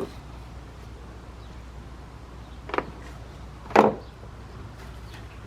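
Two short plastic knocks, the second louder, as the plastic engine cover is pulled up off its mounts, over a steady low hum.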